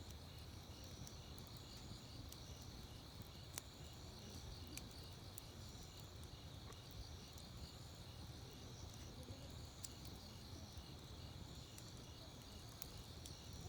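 Grass insects such as crickets calling steadily: a continuous high trill with a second, evenly pulsing chirp beneath it. A wood campfire crackles with an occasional sharp pop every few seconds.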